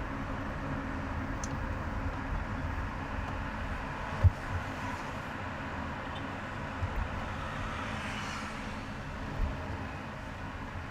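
Car driving on a highway: steady road and engine noise with a low rumble. There is one sharp thump about four seconds in, and a few lighter knocks later.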